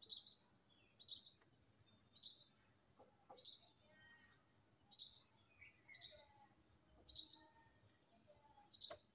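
A bird outside chirping over and over, one short high chirp about every second.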